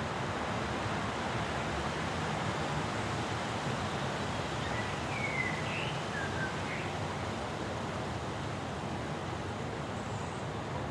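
Steady hiss of wind during a thunderstorm, with no thunderclap. A bird gives a few short chirps about five seconds in.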